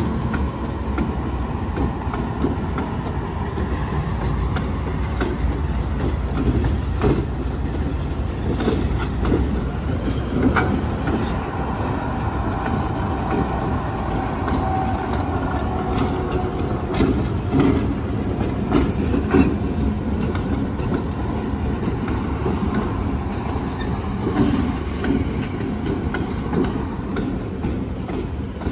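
A train of coupled diesel locomotives rolling past: a steady low rumble with wheels clicking and knocking over the rail joints, and a thin squeal about halfway through.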